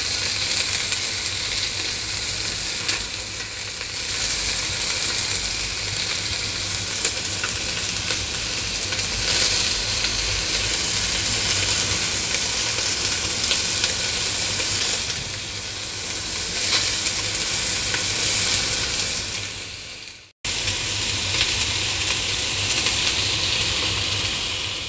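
Chicken wings frying in a little oil with garlic, shallots and ginger, sizzling steadily as they are turned with chopsticks. The sizzling cuts out for an instant about twenty seconds in.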